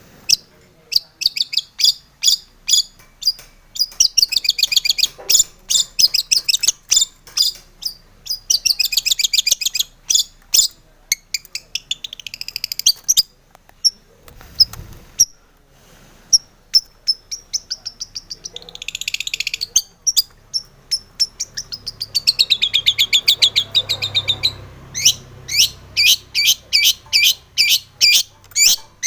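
Long-tailed shrike (cendet) singing: rapid runs of sharp, high chattering notes and buzzy trills in bursts, broken by short pauses.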